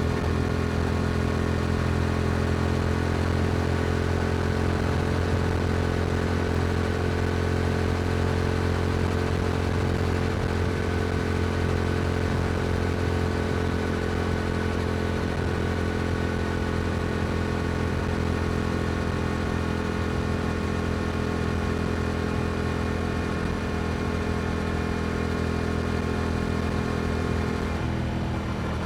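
Yamaha R7's parallel-twin engine through an Akrapovic exhaust, cruising at a steady engine speed on the road. Near the end the revs drop as the throttle comes off.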